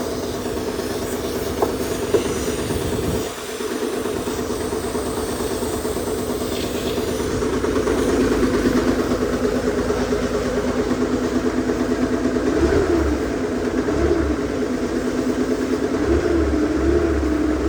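An engine running steadily, with two light clicks about two seconds in and a brief dip soon after. From about halfway it runs harder, its pitch rising and falling as it is revved.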